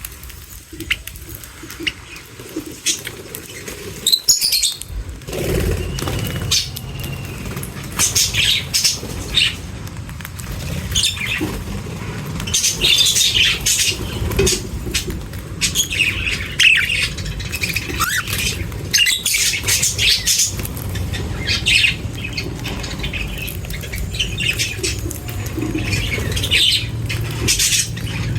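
Many small birds chirping and squawking as they feed, in quick overlapping calls that come thickest in the second half. A low steady rumble runs underneath from about five seconds in.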